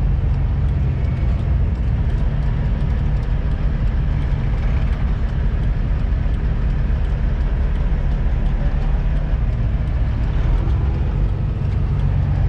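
Semi-truck diesel engine running steadily, heard from inside the cab as an even low-pitched drone.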